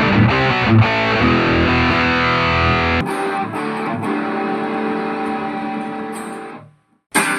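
Electric guitar playing with heavy distortion, which changes abruptly about three seconds in to a thinner, cleaner sound with ringing notes. The notes fade out, there is a brief silence, and the playing starts again near the end.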